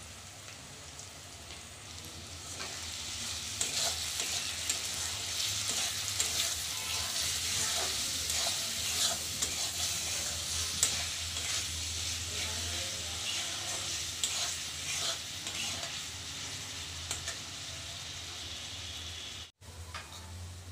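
Onion and tomato masala sizzling in oil in a kadai while a metal spatula stirs it, scraping against the pan in many short clicks. The sizzle grows louder about two and a half seconds in as the stirring starts, and breaks off briefly near the end.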